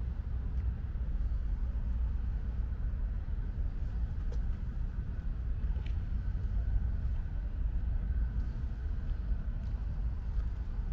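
Light rain falling, heard as a faint even hiss with a few scattered drip ticks, over a steady low rumble.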